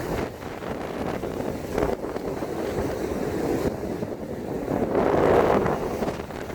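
Wind buffeting the microphone: a steady low rumble that swells louder about five seconds in.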